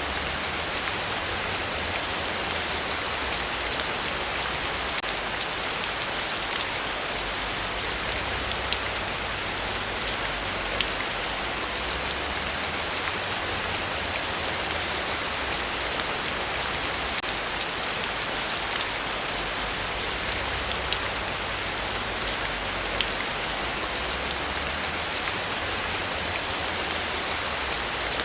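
Heavy rain falling steadily: a dense, even hiss with countless individual drops ticking through it.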